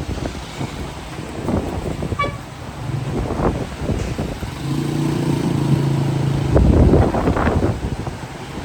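Vehicle horn held for about two seconds in the middle, a low steady honk, with a short higher beep a couple of seconds earlier. Street traffic rumbles under it, with gusts of wind buffeting the microphone, loudest just after the horn stops.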